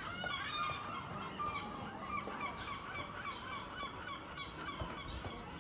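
Birds calling with rapid, repeated honking calls, several a second, overlapping throughout.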